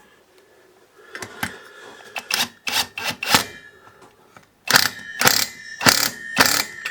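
Impact wrench run in short bursts of rapid hammering, about eight in two groups with a pause between them, tightening the flywheel nut onto the crankshaft of a two-stroke brush cutter engine.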